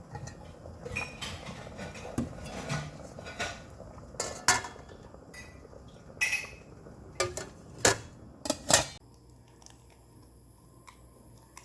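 Dishes and utensils clinking and knocking during kitchen work: a string of sharp clinks, the loudest few between about four and nine seconds in, then quieter.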